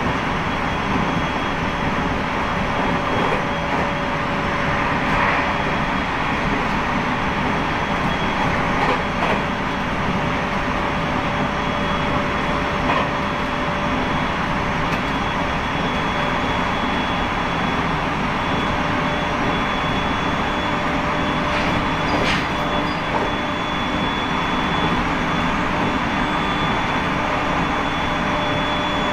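Inside a moving Aomori Railway train: steady running noise of the wheels on the rails, with a steady high whine over it and a few faint clicks.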